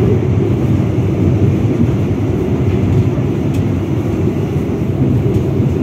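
Passenger train running at speed, heard from inside the coach: a steady low rumble of wheels and running gear.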